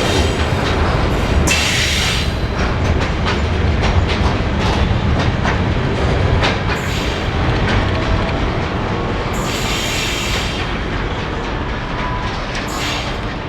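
Freight train rolling past, with a steady rumble and wheels clicking over the rail joints. Two short bursts of high hiss come about two seconds in and about ten seconds in.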